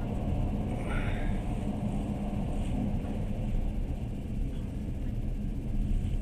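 Steady low rumble of a passenger train running, heard from inside the carriage, with a constant hum through it. There is a faint short sound about a second in.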